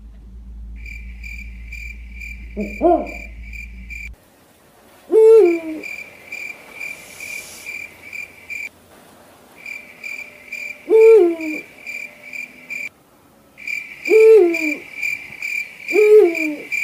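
An owl hooting five times over a steady, fast pulsing cricket chirp; a low hum underneath stops abruptly about four seconds in.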